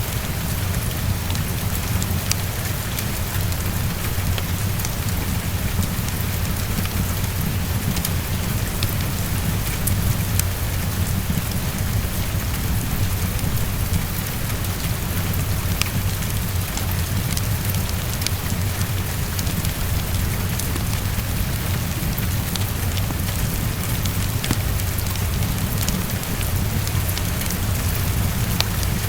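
Heavy rain beating steadily against a window, with scattered sharp drop ticks over a constant low rumble.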